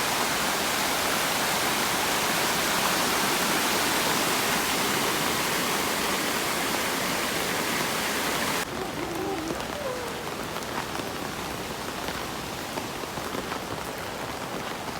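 Steady heavy rain hiss that drops suddenly about two-thirds of the way through to a softer rain patter with scattered drips.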